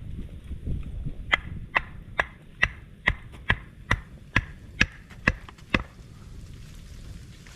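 Eleven sharp, evenly spaced chopping strikes, a little over two a second, starting about a second in and stopping near six seconds.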